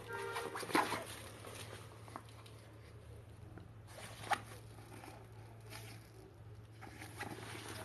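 Rustling and a few sharp clicks from handling a fabric travel bag, over a steady low hum.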